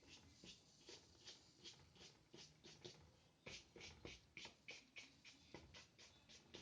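Faint, quick short strokes of a paintbrush laden with gouache on paper, about three or four a second.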